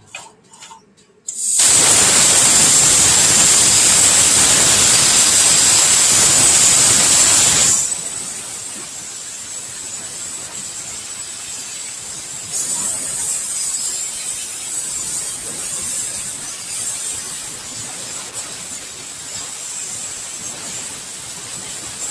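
CNC plasma cutting torch cutting sheet metal: the arc strikes about a second and a half in with a sudden loud hiss and a steady high whistle, then after about six seconds settles to a quieter steady hiss with the same whistle.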